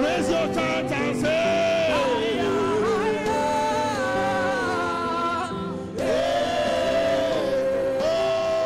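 Gospel worship song: a group of voices sings long, held lines over a steady instrumental backing, with a brief drop in the music about six seconds in.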